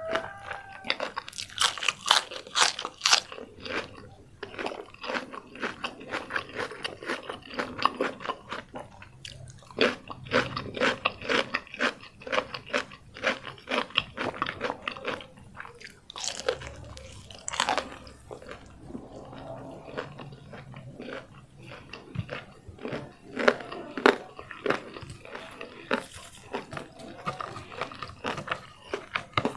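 Close-miked eating: a person biting and chewing crispy fried chicken and crisp lettuce, with many sharp crunches in quick succession and a few short pauses.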